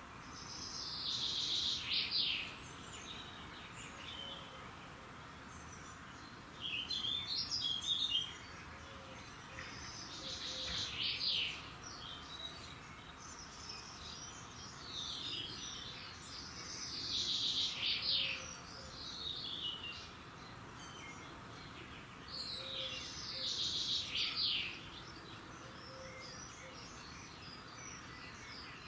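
Songbird singing in the early morning: a short, loud phrase repeated five times at intervals of about six seconds, with fainter chirps between, over a steady background hiss.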